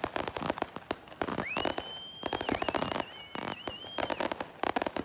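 Consumer fireworks going off: rapid, dense firecracker cracks and pops throughout, with a high whistle that rises in about a second in, holds for a couple of seconds and wavers before cutting off.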